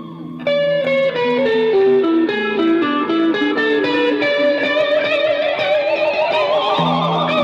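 Guitar playing a quick run of plucked notes that steps downward in pitch, starting about half a second in. About halfway through, a held, wavering tone with vibrato comes in over it.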